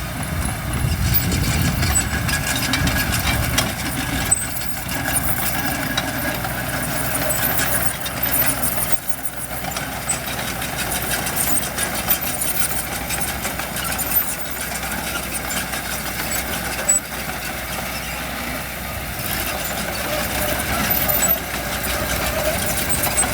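Diesel engines of dump trucks and a bulldozer running steadily, with a heavier low rumble in the first few seconds.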